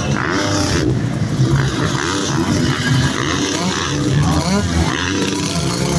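Several motocross bikes running on the track at once, their engines revving, with pitches rising and falling over one another.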